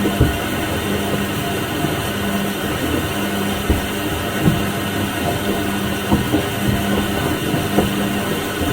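Washing machine running through its cycle: a steady churning noise with a low hum that starts and stops every second or two, and irregular soft thuds.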